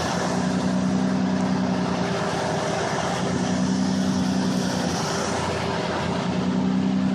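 Car engine running steadily with road noise, heard from inside the car; its low hum swells and fades three times.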